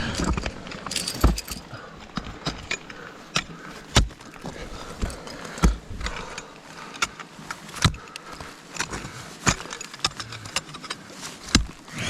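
Metal ice-climbing gear clinking and jangling, broken by a heavy thud every second or two.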